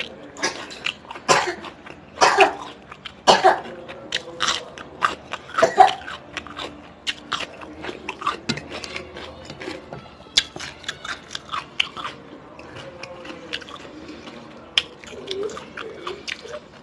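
Close-miked chewing and biting of a person eating a meal: irregular wet smacks and sharp crunchy bites, densest and loudest in the first few seconds.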